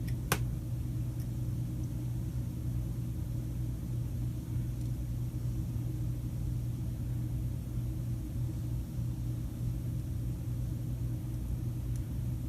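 A steady low hum with no change in pitch, and a single sharp click about a third of a second in.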